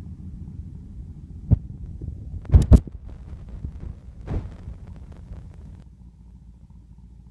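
Big-block 396 V8 idling through chambered exhaust with a low, uneven throb. Sharp knocks cut in about a second and a half in, then as a loud quick pair a second later.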